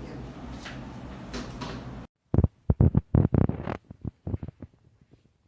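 Steady noise with a low hum that cuts off abruptly about two seconds in, followed by a quick run of loud knocks and clatters that fade into a few faint ticks.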